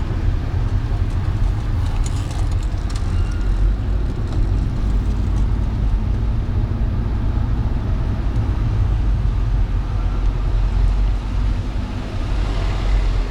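A car driving on wet city streets in the rain: a steady low road and engine rumble with an even hiss of rain and tyre spray over it.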